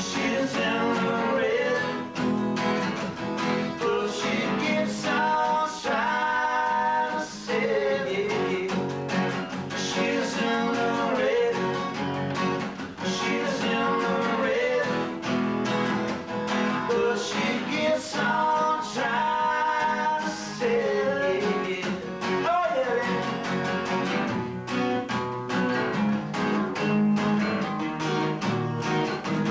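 Acoustic guitar strummed steadily, with a voice singing in phrases over it: a live song rehearsal picked up on a basic VHS camcorder microphone.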